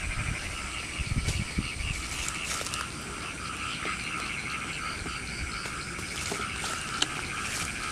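Frogs calling in a steady night chorus of rapid, pulsing calls, with a single sharp click about seven seconds in.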